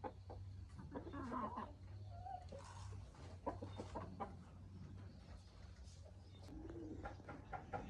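Chickens clucking in short calls, with scattered light clicks and rustles around them.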